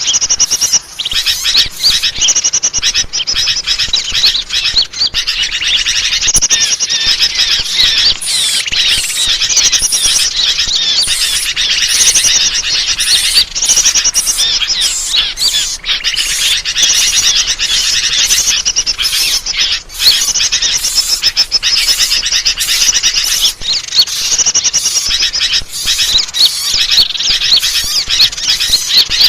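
Dense chorus of many small birds chirping, twittering and trilling over one another without pause, a bird-lure (pikat) recording made to draw wild birds in.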